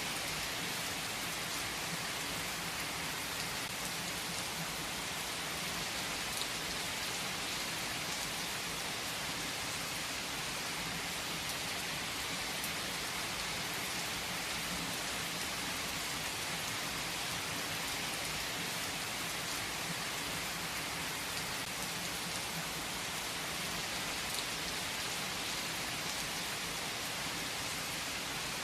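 Steady rain falling on a surface: an even hiss with a few sharper drop ticks here and there.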